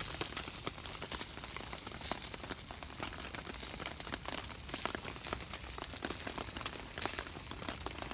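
Food sizzling and spitting as it grills, a steady hiss dotted with small crackles, with a louder burst of sizzle about seven seconds in.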